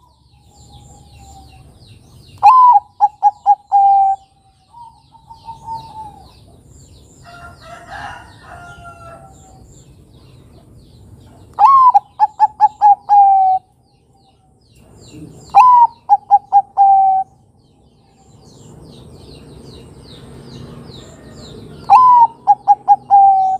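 Zebra dove (Bangkok-type perkutut) cooing: four song phrases, each a high opening note followed by a quick run of short coos that ends on a longer note. Faint high chirps of other small birds sound between the phrases.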